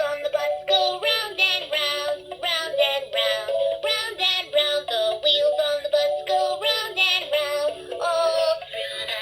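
LeapFrog Fridge Phonics toy playing its recorded song: a voice singing short syllables, two or three a second, over a simple backing tune.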